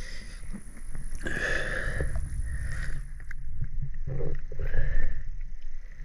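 Water sloshing and splashing with a low rumble as a spearfisher moves through the water, in irregular swells.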